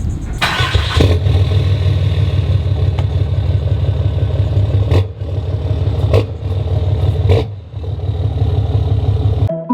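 Lifted pickup truck's engine and exhaust running loud with a low, rapid throb, cutting out briefly a few times.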